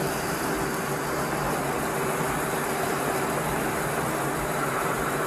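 Car engine idling steadily: an even, low hum.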